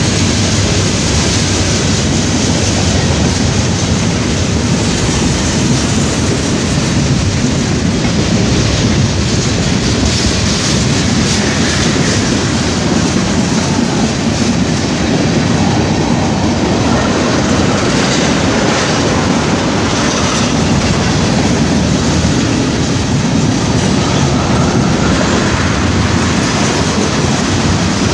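A train rolling past, the steady noise of railcars and their wheels running on the rails.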